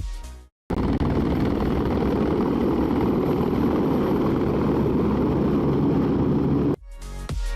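A steady, dense engine or motor noise that starts suddenly about a second in and stops abruptly near the end, between stretches of electronic dance music.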